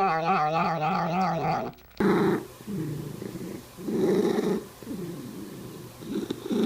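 A cat's long, wavering yowl that ends about two seconds in. Then comes a low, rough growling purr in short pulses, loud and soft in turn, five times.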